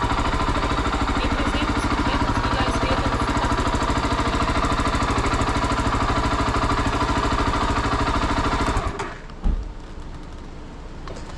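Honda XR 250 Tornado's single-cylinder four-stroke engine running at a steady speed, then switched off about nine seconds in. A single thud follows just after.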